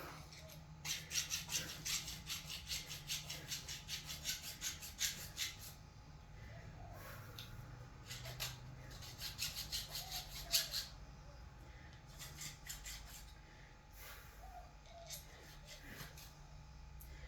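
Metal being worked with a file: two runs of quick, even rasping strokes, about four or five a second, the first lasting about five seconds and the second about two, over a steady low hum.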